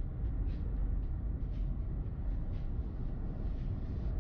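Steady low rumble of a car driving on a snowy road, engine and tyre noise, with faint light ticks about once a second.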